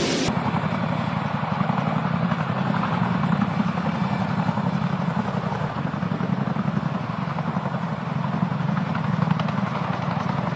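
Helicopter running steadily, its rotor and engine making a continuous drone with a fast low flutter.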